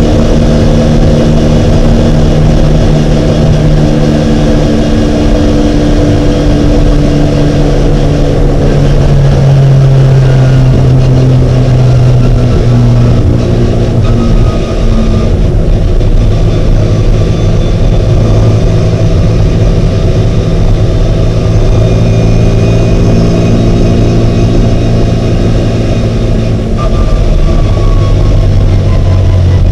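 Racing Mini Cooper's engine running hard and continuously, its pitch dropping in steps a few times as the revs change, on a car the uploader says suffered an intermittent misfire.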